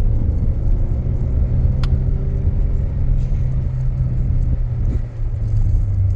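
Steady low engine rumble with a constant hum, and a short click about two seconds in.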